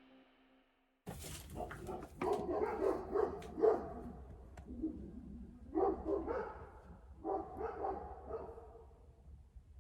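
An animal calling in repeated wavering cries, starting about a second in and coming in three bouts, over a steady low rumble.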